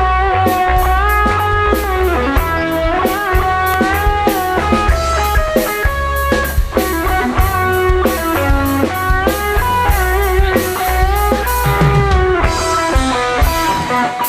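Band instrumental break: an electric guitar plays a melody with sliding, bent notes over bass and a steady drum beat.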